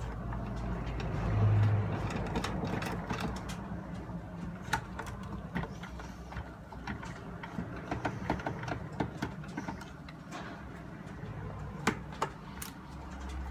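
Scattered small clicks and taps of tools on the plastic casing of a portable radio being taken apart, with a louder low thump about a second and a half in, over a steady low hum.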